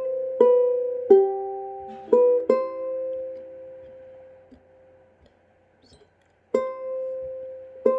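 Ukulele playing chords in a slow waltz-like pattern, each pluck ringing out and fading. The playing stops for about two seconds just past the middle, then starts again.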